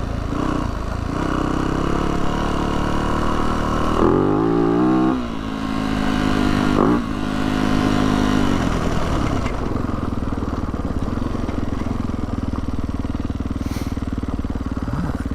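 Yamaha YZ450F dirt bike's single-cylinder four-stroke engine running on the move, revving up and down about four seconds in and again a couple of seconds later, then running at a steady pitch.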